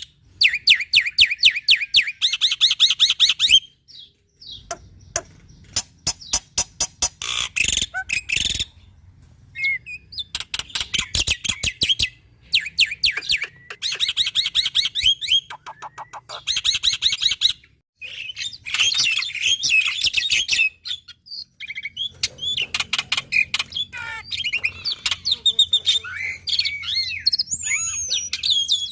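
Black-winged myna (jalak putih) singing energetically: rapid trains of harsh repeated notes in bursts a second or two long, with short pauses between them, turning to varied whistles and glides near the end.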